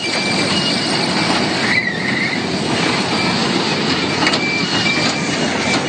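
Fairground kiddie truck ride running on its track: a steady rumbling clatter with a two-note electronic beeping alternating on and off above it.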